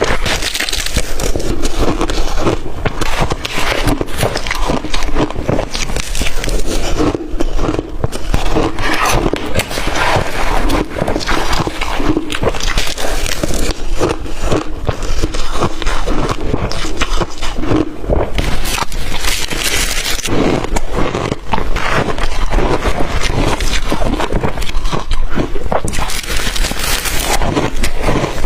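Blender-crushed ice being bitten and chewed close to the microphone: a dense, continuous run of crackling crunches.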